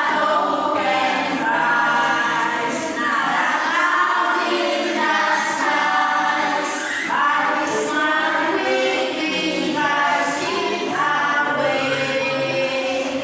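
A group of voices singing a hymn together in phrases, like a congregation or choir.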